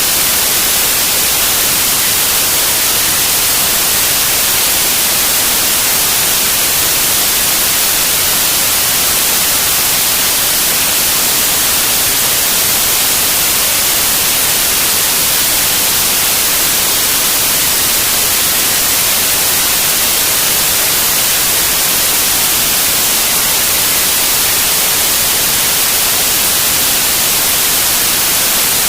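Steady, loud hiss of static from a CB radio receiver with no one transmitting, stronger in the highs than the lows.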